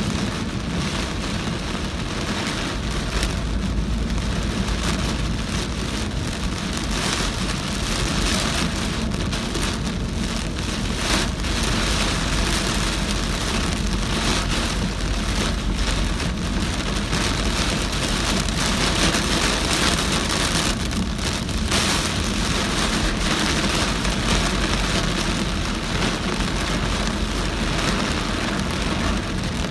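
Very heavy rain pelting a moving car, a dense steady hiss, with a steady low rumble of the car and road underneath.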